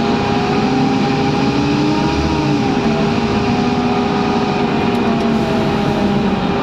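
Scania N230UD double-decker bus's diesel engine under way, pulling steadily with a steady whine over it; the pitch climbs for about two seconds, then eases and settles.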